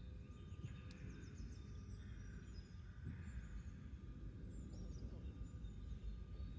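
Faint garden ambience: chickens making soft low calls, with small wild birds chirping high and brief over a steady low rumble, and one sharp click about a second in.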